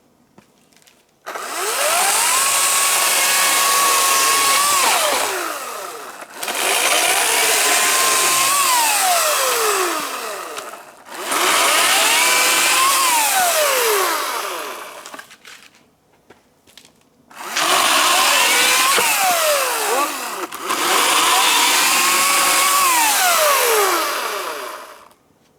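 A small electric motor with a rush of air, like a blower, spins up to a steady high whine, runs for about four seconds and winds down, five times in a row.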